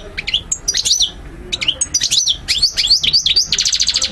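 European goldfinch singing: a rapid run of high chirps and slurred, twittering notes, ending in a fast buzzy trill near the end.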